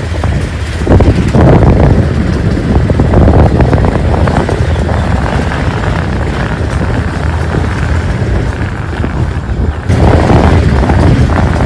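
Motorcycle running along a street, its engine buried under heavy wind buffeting on the camera microphone. The wind noise eases briefly near the end, then comes back loud.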